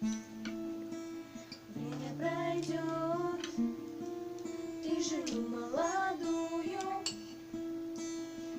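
Acoustic guitar playing a strummed accompaniment, with a woman's voice singing a wordless melody over it in two phrases, the second sliding up in pitch.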